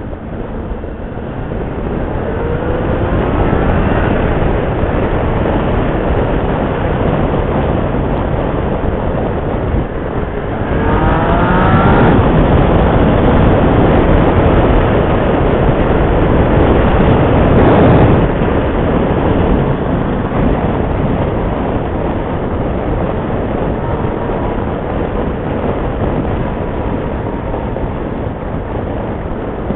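Motorcycle being ridden on the road, engine running under a loud steady rush of ride noise. The engine note rises as it accelerates about three seconds in and again around eleven seconds, and the sound is loudest around eighteen seconds.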